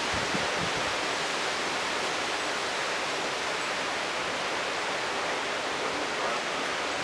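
Steady rushing hiss of wind through trees and leaves as a thunderstorm's outflow gusts arrive.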